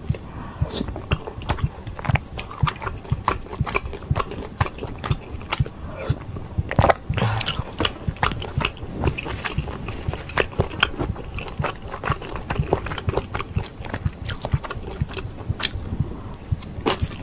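Close-miked eating sounds: wet chewing and smacking clicks, irregular and continuous, as someone eats ramen soup with rice cakes and dumplings. A longer, louder mouth sound comes about seven seconds in.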